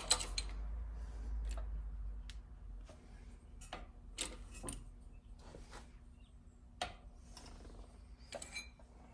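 Irregular light clicks and taps of a pot metal trim piece being handled and bent straight by hand while still warm, with a faint low hum in the first few seconds.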